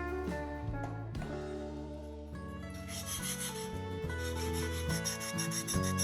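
Rapid rasping strokes, about five a second, starting about three seconds in, over background music.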